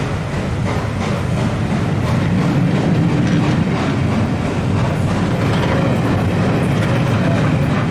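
Passenger train rolling past, with a steady rumble and wheels clicking over the rail joints.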